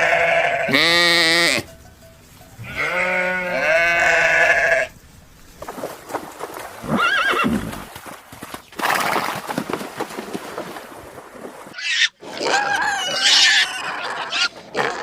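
A run of farm-animal calls: two long wavering calls in the first five seconds, then rougher, noisier animal sounds, and another call starting near the end.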